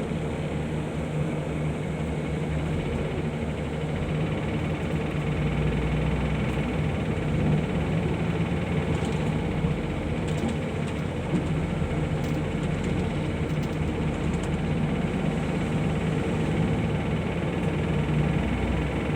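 Bus engine running with road noise, heard from inside the cabin as a steady drone.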